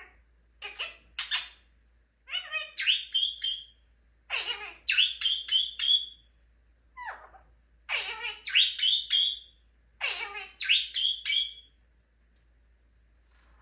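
Indian ringneck parrot calling: about six bursts of shrill, quick-fire call notes, stopping shortly before the end.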